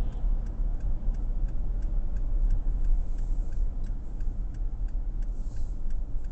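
Steady low road and engine rumble inside a moving car, with a turn-signal indicator ticking evenly about three times a second.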